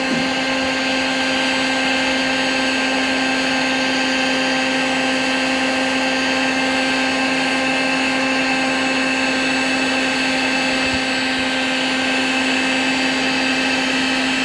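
Harbor Freight heat gun's fan motor running steadily with a constant hum, blowing hot air to melt plastic for welding a patch onto a plastic boat hull.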